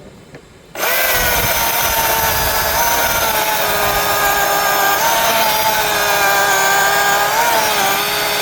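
Milwaukee cordless battery-powered chainsaw starting up about a second in and running steadily with an electric whine, its pitch dipping briefly now and then as the chain bites into a pine limb.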